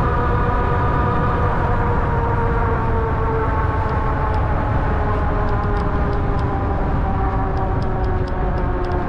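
Ariel Rider Grizzly e-bike riding along: a steady whine from its hub motors over a heavy rumble of tyres and wind. The whine slowly falls in pitch as the bike eases off, and light ticks come in during the second half.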